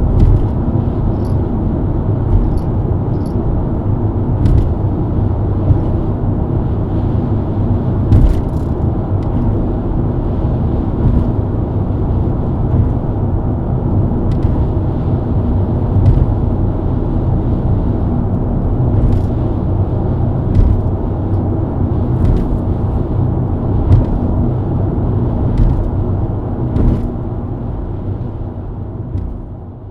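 BMW E90 323i inline-six engine and road noise at a steady highway cruise, with a few short thumps from the road. The sound fades out near the end.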